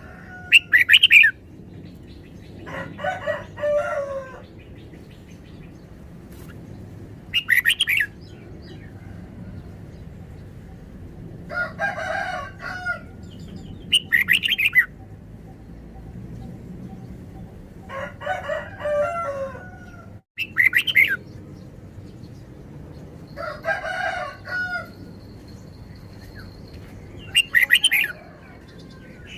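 Red-whiskered bulbuls singing in turns: short, bright, chirpy phrases about every seven seconds, alternating with longer phrases of several lower notes.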